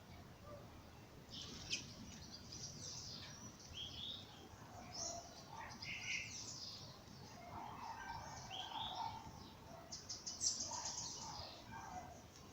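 Dawn chorus of several songbirds, short chirps and song phrases overlapping one another over a steady low background hiss. About ten seconds in, a rapid high trill is the loudest call.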